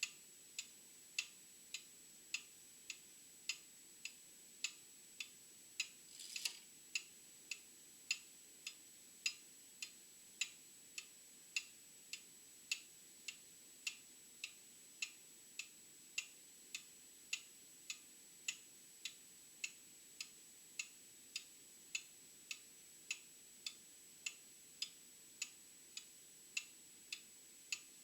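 Old clock ticking steadily, a little under two ticks a second, alternating louder and softer ticks, with a faint steady high tone behind it. A brief scratchy noise comes about six seconds in.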